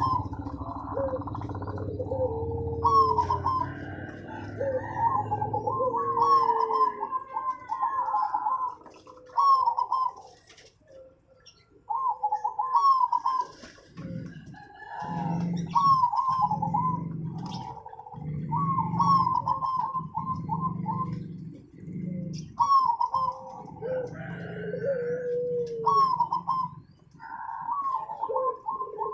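Zebra doves (perkutut) cooing over and over, their rapid stuttering, trilled phrases overlapping, with lower falling coo notes among them. A deep pulsing sound comes in repeatedly through the middle stretch.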